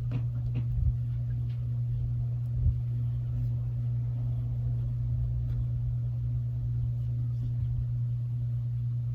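A steady low hum throughout, with a few soft knocks and light clicks in the first three seconds, typical of small tools and phone parts being handled on a work surface.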